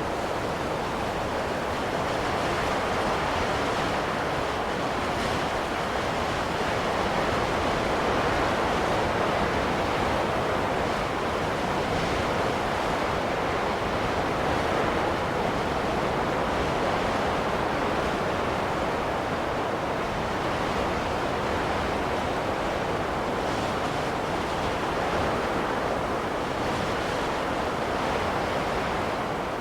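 Steady rushing wind of a snowstorm, an even noise that swells and eases only slightly.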